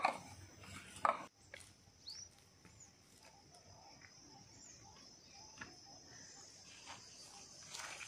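Small birds chirping now and then, short rising and curling calls, over a steady high-pitched hiss, with a few light knocks scattered through.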